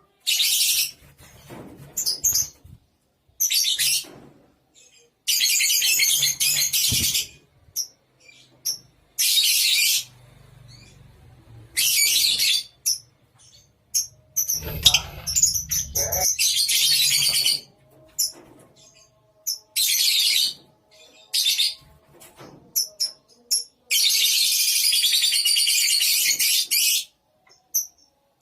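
A colony of lovebirds chattering in loud, shrill bursts of about one to three seconds each, broken by short pauses; the longest burst comes near the end. A brief low rumble sounds about halfway through.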